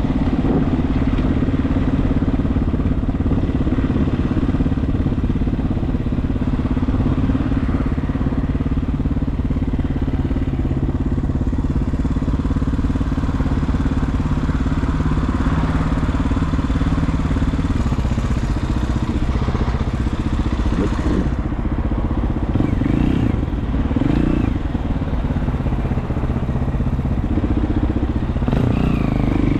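Regulmoto TE enduro motorcycle's engine running steadily under way, with wind noise over it. The engine note shifts a little past halfway, with a few short rises in pitch near the end.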